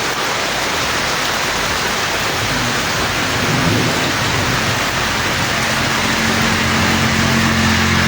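Heavy rain coming down steadily. A vehicle's engine hum joins in from about five and a half seconds in.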